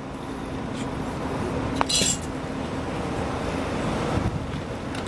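Volvo B9R coach's diesel engine running with a steady low rumble. Just before two seconds in comes a sharp click, followed by a brief high-pitched metallic clink.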